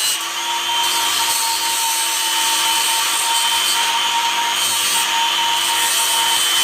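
Handheld power tool running steadily on wood, its motor holding one constant whine under a rough rubbing noise.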